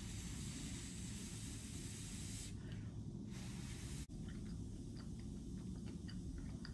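A person quietly chewing a mouthful of food, with faint small clicks, under a soft hiss that fades about two and a half seconds in.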